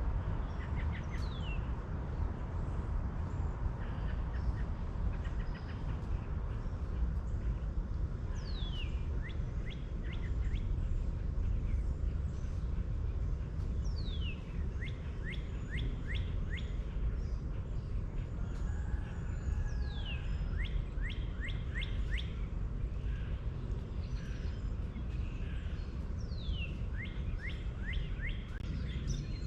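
A songbird singing the same phrase over and over, about every six seconds: a falling whistled slur followed by a quick run of short notes, over a steady low rumble.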